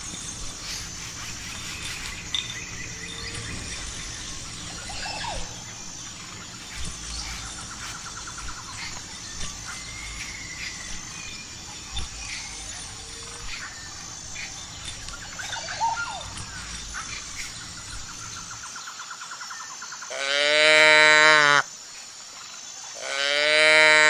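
Outdoor rural ambience with scattered bird chirps and faint distant animal calls. It cuts off suddenly, and near the end come two loud bleats, each about a second and a half long, typical of a sheep.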